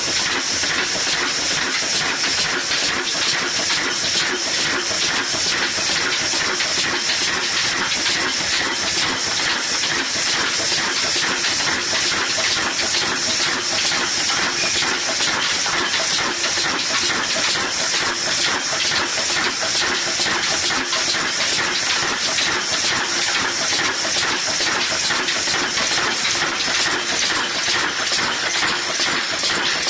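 Old Ruston Hornsby single-cylinder diesel engine running steadily, its even rhythmic beat overlaid by a constant hiss.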